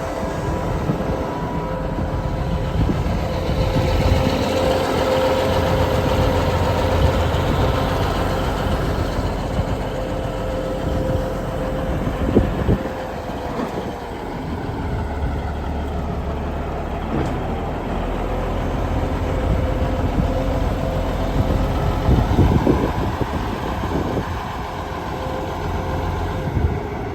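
Case IH 9170 four-wheel-drive tractor's diesel engine running steadily, with a low rumble and a thin steady whine over it. A few short clunks come about halfway through and again near the end.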